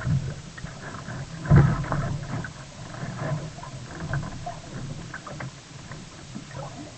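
Water splashing and sloshing against a sea kayak in irregular surges, the biggest splash about a second and a half in, over a steady low rumble.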